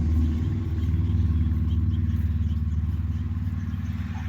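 Small vehicle engine running steadily with a low, even drone, slowly getting a little quieter.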